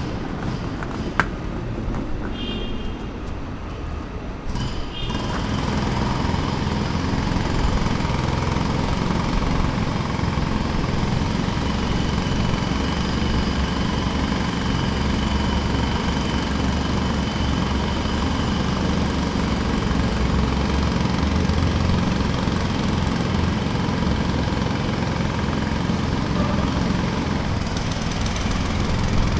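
Jackhammer hammering at a construction site as a dense, steady rattle that comes in fully about five seconds in, after a quieter stretch with one sharp click.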